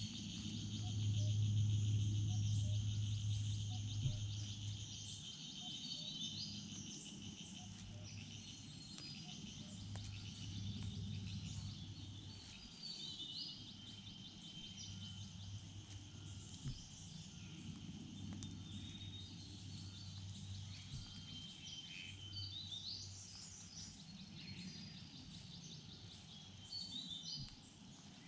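Forest ambience: insects trilling steadily, with short songbird calls scattered throughout. A low hum underneath is strongest in the first few seconds.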